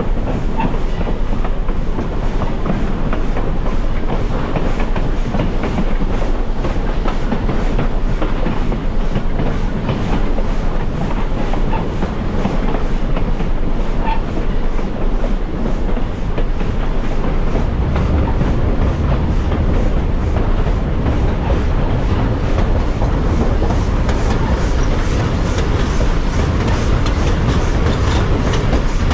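Heritage train running along the line, heard from aboard: steady wheel-and-rail rumble with a clickety-clack over the rail joints. The low rumble gets louder about two-thirds of the way through.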